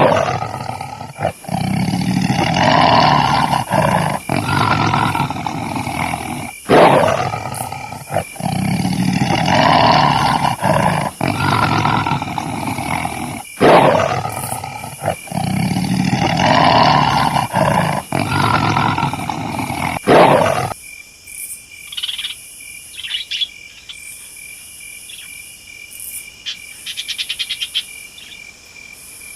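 Lion roaring: the same roaring sequence of about seven seconds plays three times over and stops abruptly about two-thirds of the way through. It leaves a quieter jungle bed of insects trilling steadily and birds chirping, with a fast ticking run near the end.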